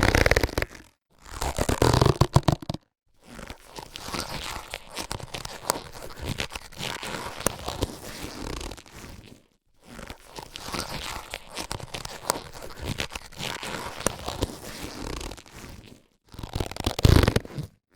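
Latex surgical gloves being handled: rubbery rustling and crinkling in separate spells with short silences between, louder near the start and near the end, with two longer, quieter stretches of rubbing in the middle.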